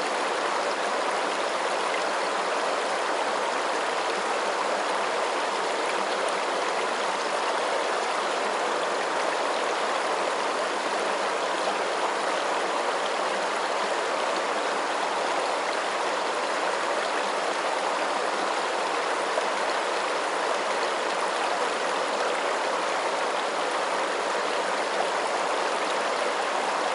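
Running water, a steady, unbroken rushing with no changes or separate splashes.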